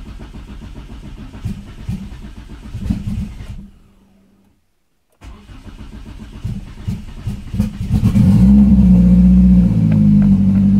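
Car engine on E85 fuel being cold-started with difficulty. The starter cranks unevenly and stops. After a break of about a second it cranks again with sputtering misfires, until the engine catches about 8 seconds in and runs loud and steady. The reluctant start is typical of E85 in a cold engine.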